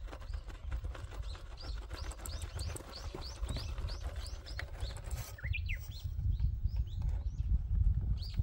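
A bird singing a fast run of repeated down-slurred chirps, about four a second, then a few scattered higher calls. A steady low rumble runs underneath.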